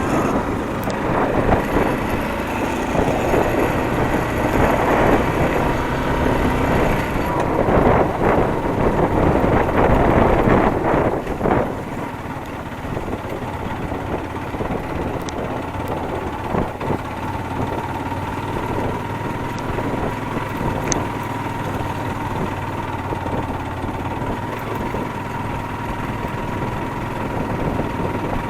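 Motorcycle engine running steadily, with rushing noise that is louder for the first dozen seconds and then settles.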